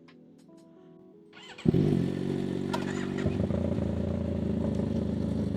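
Motorcycle engine starting about one and a half seconds in with a sudden burst, then settling into a steady idle.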